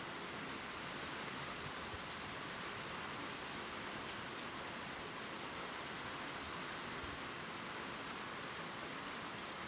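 Gentle rain falling on leaves: a steady even patter with a few distinct drop ticks.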